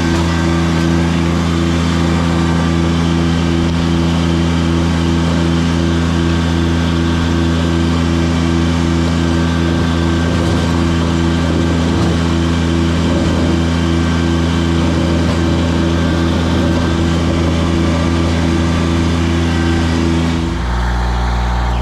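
Tractor engine running steadily while plowing snow with a blade, with a regular pulsing in its note. Near the end the engine note drops as it slows.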